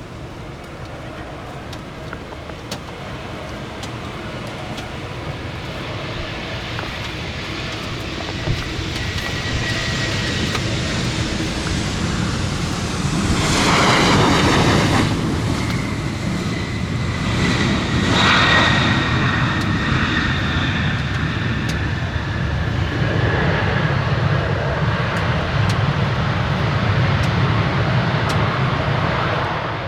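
Jet airliner's engines growing louder as the aircraft approaches, a steady roar with a thin high whine. It is loudest about halfway through, and the whine dips slightly in pitch as the roar carries on.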